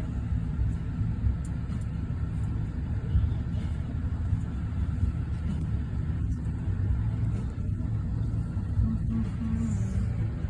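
Steady low rumble of an automatic car wash, heard from inside the car's cabin.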